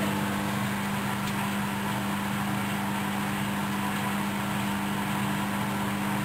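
Hoover DYN10124DP washing machine in its final spin at 700 rpm, running steadily with a constant motor hum over the rush of the spinning drum.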